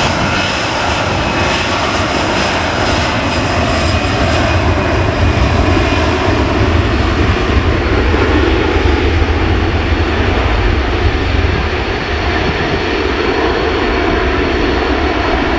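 Airliner's engines running loud and steady, a deep rumble that swells through the middle and eases near the end.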